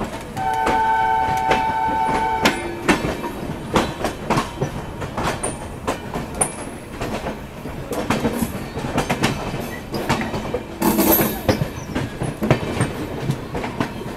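Indian express passenger train running, its wheels clattering rhythmically over the rail joints, heard from on board. About half a second in, a train horn sounds a steady chord for about two seconds, and near the end a brief louder rush of noise passes.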